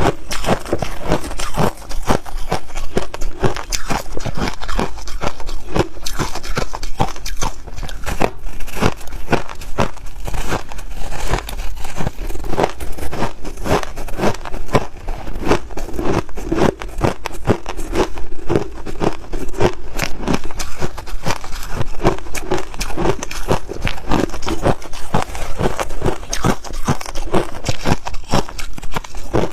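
A person biting and chewing snow ice close to the microphone: a dense, continuous run of loud crunches.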